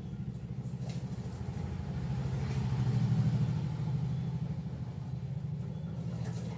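A vehicle engine running: a low, rapidly pulsing rumble that swells to its loudest about three seconds in and then eases off.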